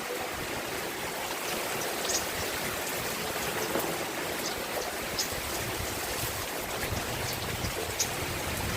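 Steady rain falling: a continuous even hiss with a few scattered sharp ticks of drops.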